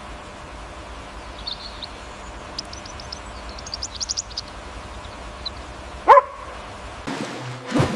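A dog gives one loud yelp that falls in pitch, about six seconds in, over a steady rush of water. A few faint high chirps come earlier.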